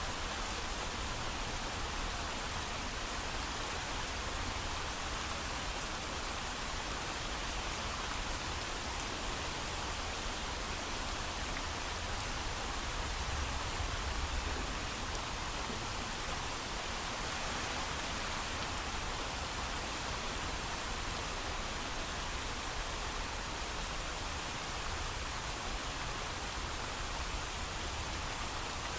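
Steady heavy rain falling without thunder: an even, unbroken hiss.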